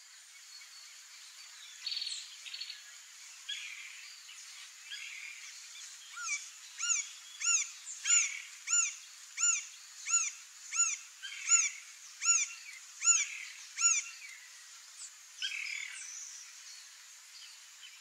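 A bird calling a regular series of about a dozen loud notes, each rising then falling in pitch, about one and a half a second, from about a third of the way in until near the end, with softer scattered bird chirps before and after.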